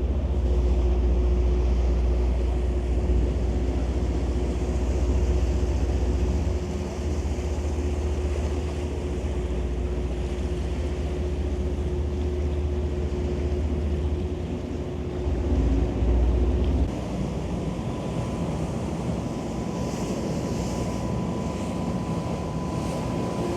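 Tour boat's engines running steadily, a low drone with a steady hum, mixed with wind and water rushing past the hull. About two-thirds of the way through, the low rumble drops away and a higher steady hum remains.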